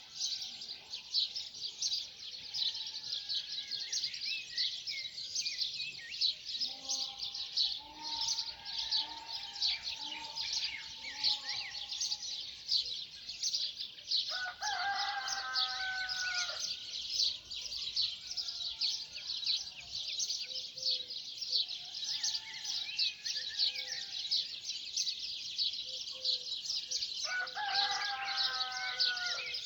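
Dawn chorus: many small birds chirping and singing continuously in a dense high twitter. A lower, longer call with several stacked pitches stands out twice, about halfway through and again near the end.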